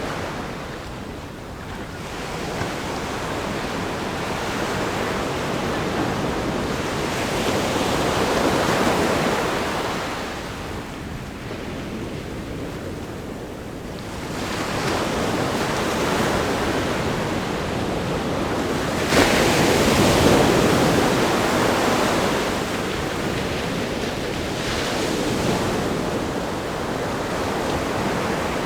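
Ocean waves crashing on a rock groin and washing over the sand. The rush of surf rises and falls in slow swells, with one sudden loud crash about two-thirds of the way through.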